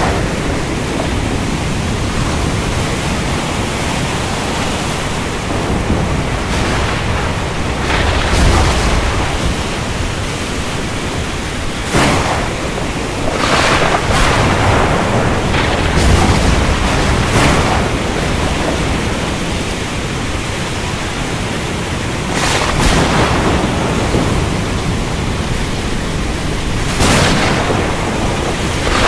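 Thunderstorm at sea: a steady rush of rain and sea noise, broken by sudden sharp cracks every few seconds and deeper rumbles of thunder.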